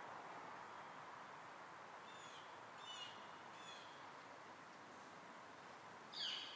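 Small birds chirping: three short calls in the first half, then one louder shrill call that falls in pitch near the end, over a faint steady background hiss.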